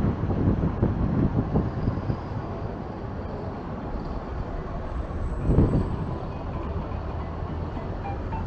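Strong wind buffeting the microphone: a low, unsteady noise with a gust about five and a half seconds in.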